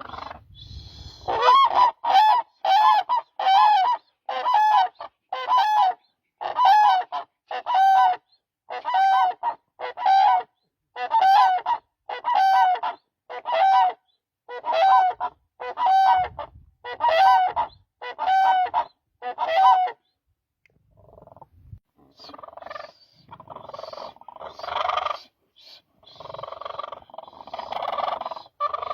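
Cranes calling: a long run of loud, evenly spaced honking calls, roughly one and a half a second, then after a short pause several birds calling over one another.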